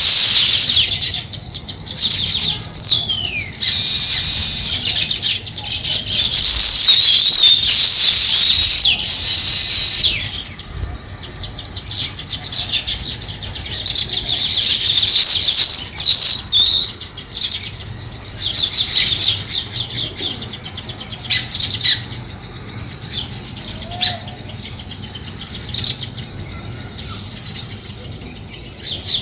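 House sparrows chirping: a dense, continuous run of rapid chirps for about the first ten seconds, then shorter bouts of chirping that come and go.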